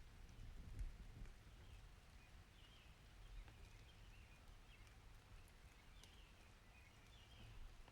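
Near silence: a faint low rumble with scattered faint high chirps.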